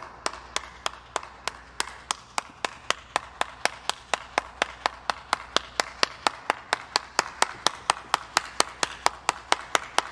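A steady train of sharp claps or clicks, about four to five a second, over a faint low hum.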